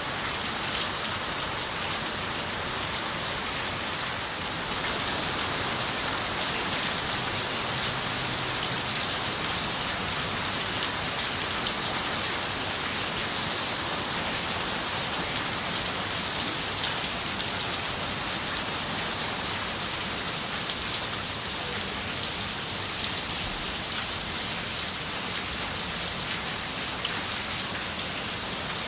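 Steady rain falling: a dense hiss of drops with fine ticks through it, swelling slightly about five seconds in and then holding even.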